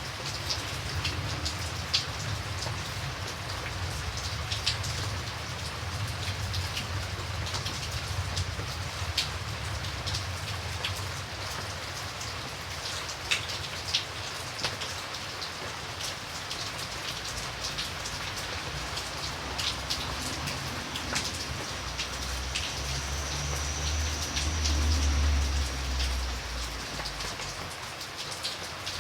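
Steady rain falling, with individual drops ticking sharply now and then over the even hiss. A low rumble swells up about three-quarters of the way through and fades again.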